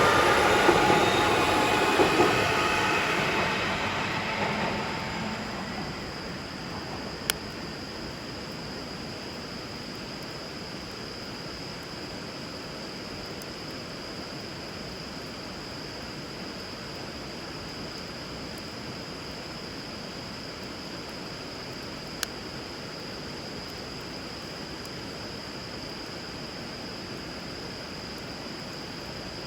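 A passing train, its wheels squealing and its rumble fading out over the first five seconds. Then a steady rush of flowing river water, with two single sharp pops from the wood fire.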